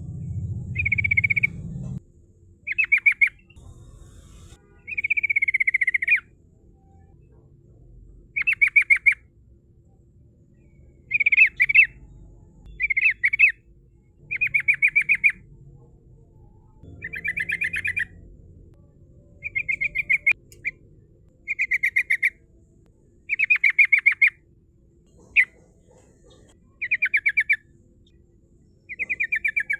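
Sooty-headed bulbul (trucukan) singing a long run of short, rapid trilled phrases. About fourteen phrases come roughly every one and a half to two seconds, each lasting about a second.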